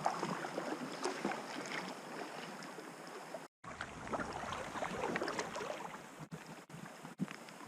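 Water splashing and pattering around an inflatable packraft drifting down a river, with many small irregular splashes. The sound cuts out briefly about three and a half seconds in.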